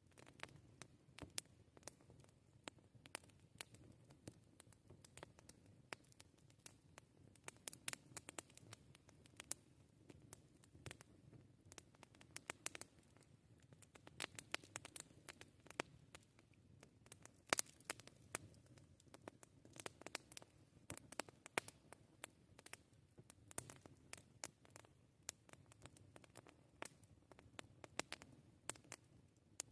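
Wood campfire crackling: a steady run of sharp, irregular pops and snaps over a soft low rumble of the burning fire.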